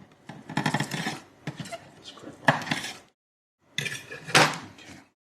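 Metal scissors clicking and snipping through plastic bird netting, with rustling and handling of the netting, in several short bursts; two sharp snaps stand out, about two and a half seconds and a little over four seconds in.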